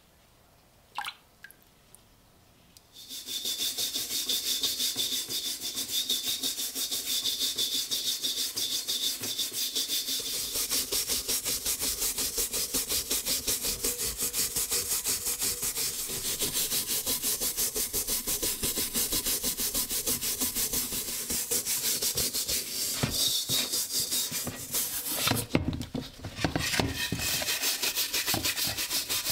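Rapid back-and-forth scrubbing on the rusty steel shell of an M40 helmet, rubbing off rust. It starts about three seconds in, after a couple of light clicks, pauses briefly near the end with a few knocks, then resumes.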